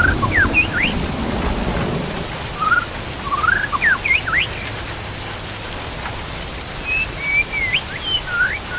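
Steady rain, with a low rumble of thunder over the first two seconds. A songbird whistles short phrases of quick rising and falling notes three times: at the start, about three seconds in, and near the end.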